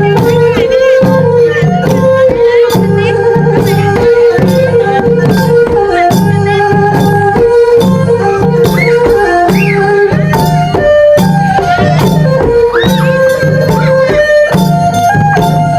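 Khmer traditional dance music for Sadam dancing: a steady, repeating low drum beat under a melody line, with sharp percussion strikes throughout.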